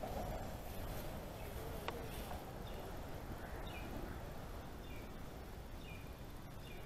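Small birds chirping in woodland: short falling chirps, about one a second, starting a couple of seconds in, over a low steady rumble. A single sharp click sounds about two seconds in.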